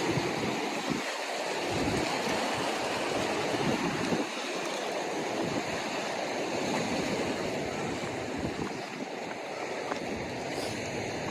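Ocean surf washing steadily against the atoll shore, with wind gusting on the microphone in uneven low rumbles.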